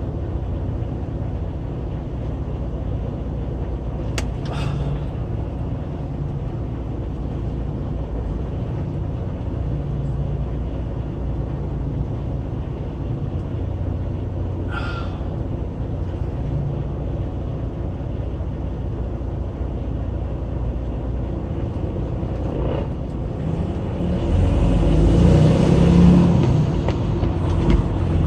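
Semi truck's diesel engine running at low speed with a steady low rumble while the rig is maneuvered slowly. Two brief high-pitched sounds come through, one about four seconds in and one about fifteen seconds in, and the engine grows louder for a few seconds near the end.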